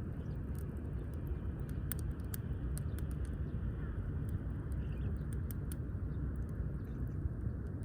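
Wood fire burning, with scattered sharp crackles at irregular times over a steady low rumble.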